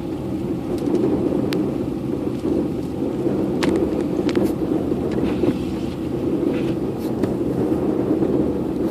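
Car driving on a snowy road: a steady low rumble of engine and tyres, with scattered light ticks and clicks.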